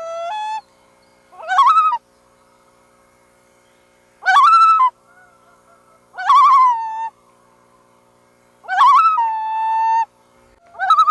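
Loon calling in a series of short, rising, wavering cries, each about a second long and repeated every couple of seconds, five times in all.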